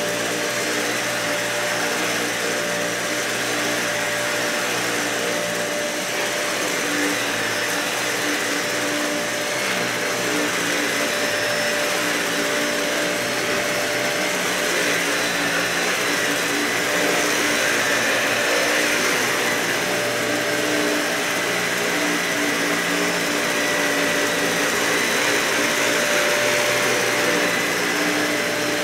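Dyson vacuum cleaner running steadily over carpet, a motor whine over a rushing hiss that swells a little in level about halfway through.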